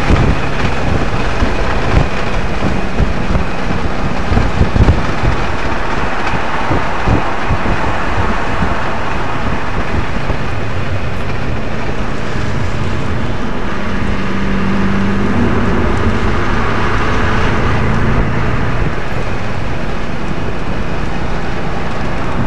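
Audi RS 4's engine running hard at track speed, heard inside the cabin together with tyre and road noise. Sharp knocks and jolts over the first few seconds, then a steadier engine note.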